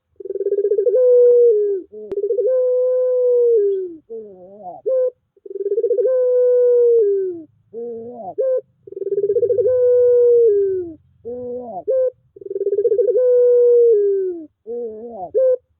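Puter pelung dove cooing: about five long drawn calls of a second or two each, level then slightly falling at the end. Each is separated by short wavering, rising notes.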